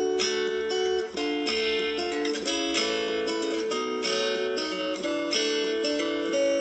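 Background music: a plucked acoustic guitar playing a gentle melody, with notes changing every fraction of a second.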